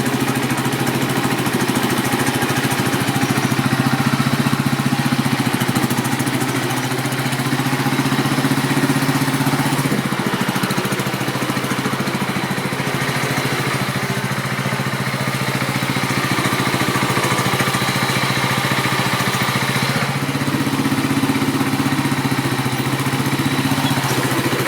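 Tractor engine running steadily just after a cold start without choke, still cold.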